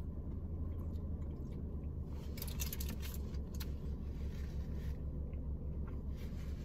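Close-up eating sounds: biting into and chewing a lamb shawarma wrap, with a cluster of crisp crackles about two to three and a half seconds in. Under it runs a steady low hum of the car.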